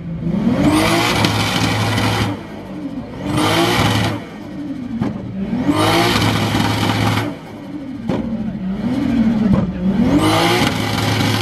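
Car engine free-revved hard through a loud exhaust, four times. Each time the pitch climbs and falls back to idle.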